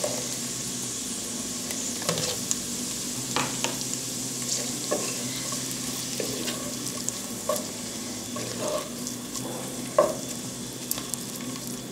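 Sliced jalapeños and diced onion frying in hot lard in a clay cazuela: a steady sizzle. A wooden spatula stirs them, with a few knocks and scrapes against the clay pot.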